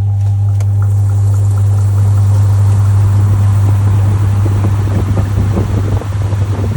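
Top-loading washing machine washing a load: its motor hums steadily while water churns and sloshes in the tub. The sloshing grows more uneven over the last couple of seconds.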